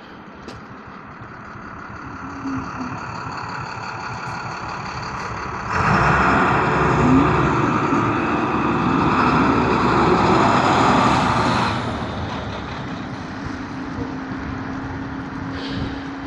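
A heavy vehicle, likely a truck, passing close in street traffic: a loud rushing noise that comes in suddenly about six seconds in and lasts about six seconds before it fades back to the steady traffic sound.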